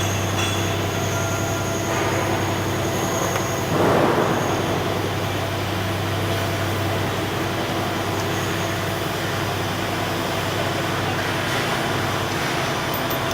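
Wood chipper crusher (sawdust mill) running on its pre-shipment test run: a steady mechanical drone with a low hum, and a brief louder rush about four seconds in.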